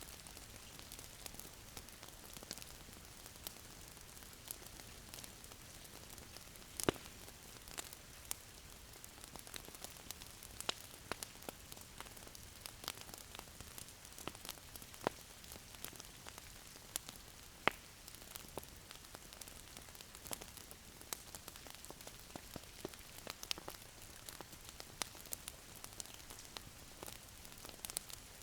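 Wood fire crackling in a fireplace: a steady soft hiss with irregular sharp pops, two louder pops about a quarter and about two-thirds of the way through.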